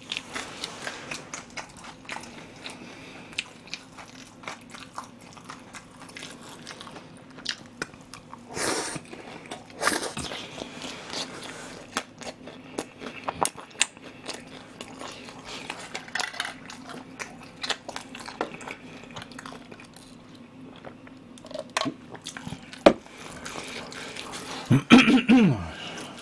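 Close-miked chewing of crispy battered fried pork in soy sauce (ganjang tangsuyuk): many small crunches and wet mouth clicks, with a few louder bites about a third of the way in. A short vocal sound comes near the end, over a faint steady hum.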